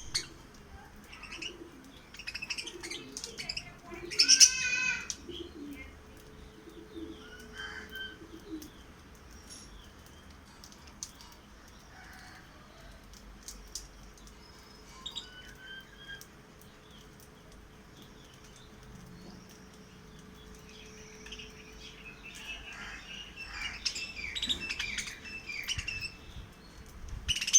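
Pet lovebirds chirping in short, high calls with some wing flapping, a loud cluster of calls about four seconds in and a busy spell of chatter near the end.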